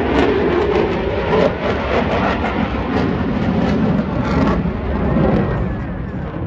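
Loud jet noise from an F-35B Lightning II's Pratt & Whitney F135 engine as the fighter flies its display, a steady rumble with a rough crackle through it that eases a little near the end.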